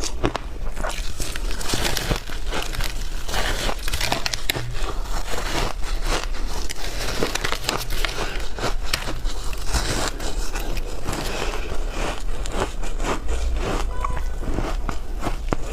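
Shaved ice being chewed close to the microphone: a continuous run of crisp crunches and crackles, with a steady low hum underneath.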